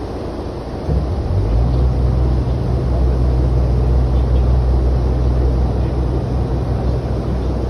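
Tour boat's engine droning on the river; about a second in it throttles up into a louder, low steady hum that rises briefly in pitch and then holds, over a constant rush of wind and water.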